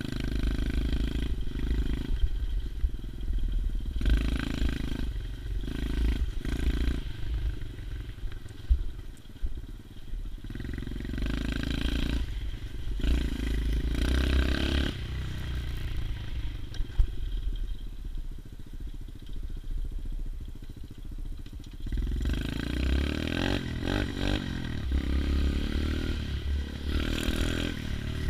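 A 110cc pit bike's single-cylinder four-stroke engine running while it is ridden, its revs and loudness rising and easing in stretches as the throttle opens and closes.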